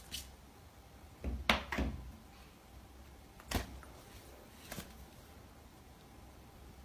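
A few short knocks and thumps, scattered over several seconds, over a faint low hum.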